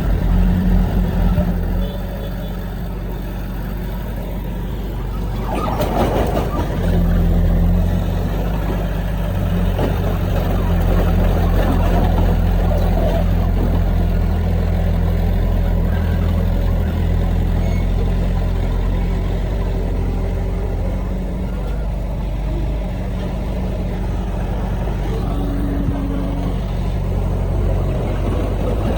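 Heavy diesel earthmoving machinery running steadily under load, with a brief noisy burst about six seconds in.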